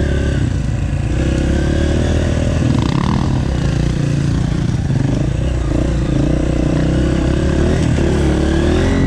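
Off-road dirt bike engines: one runs steadily close by while another's pitch rises and falls as it is revved.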